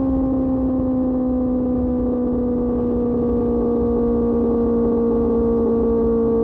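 QJ Motor SRK600's inline-four engine through an SC-Project exhaust, running at steady high revs while riding, its pitch easing slowly downward as the throttle is held back. A rush of wind noise sits underneath.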